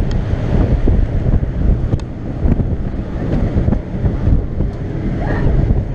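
Strong wind buffeting the microphone on a ship's open deck, a loud uneven rumble over the sea and ship noise beneath it.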